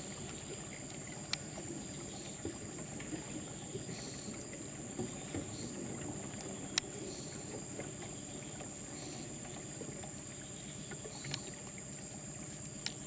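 Steady, high-pitched drone of rainforest insects over a low background rumble, with a few sharp clicks scattered through it.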